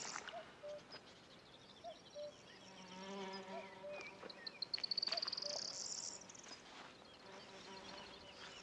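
Insects buzzing and trilling: a high, pulsed trill that rises in pitch, heard twice, and a lower buzz in the middle.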